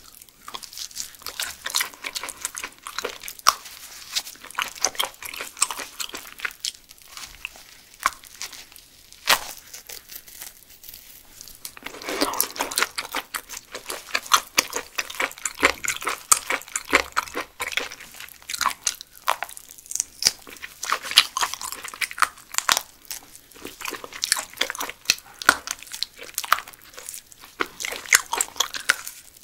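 Close-miked chewing and biting of raw yellow stingray: many short, sharp, irregular clicks and wet mouth sounds.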